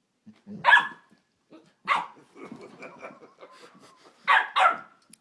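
Dogs barking during rough play: sharp barks about a second in and two seconds in, then two close together near the end, with quieter rough, low sounds between them.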